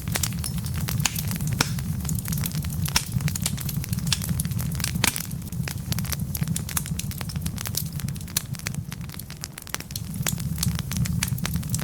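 Wood fire burning in a fireplace: logs crackling and popping in irregular, frequent snaps over a steady low rumble of the flames.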